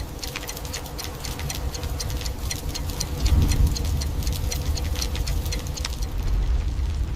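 Fire crackling with dense, irregular snaps over a steady low rumble; the rumble swells briefly about three seconds in.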